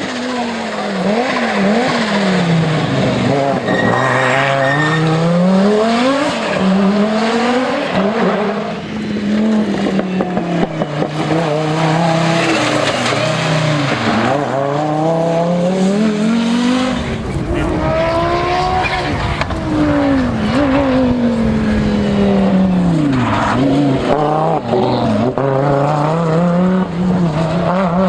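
Audi Sport Quattro S1 rally car's turbocharged five-cylinder engine revving hard, its pitch climbing and dropping again and again as it accelerates and the driver shifts or lifts. From about two-thirds of the way in, a heavy low rumble joins it.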